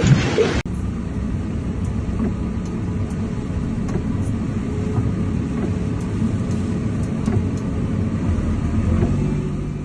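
Wind and surf noise that cuts off about half a second in, followed by a low, steady rumble like a motor vehicle's engine and road noise.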